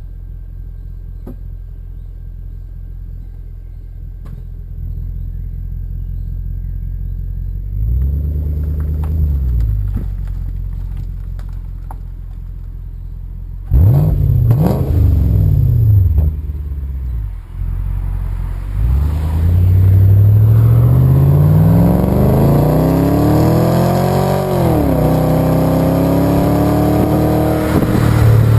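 Volvo S80's 4.4-litre V8 through a Heico aftermarket exhaust: idling with a low rumble, revved once and then blipped twice sharply about halfway through, then accelerating hard with rising pitch, shifting up near the end and pulling on.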